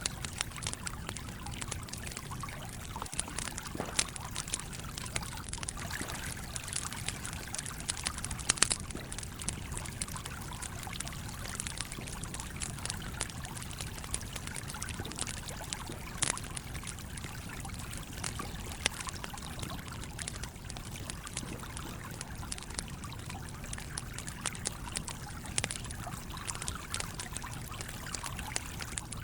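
Wood fire crackling with frequent sharp pops, the loudest about four and eight and a half seconds in, over the steady rush of a running stream.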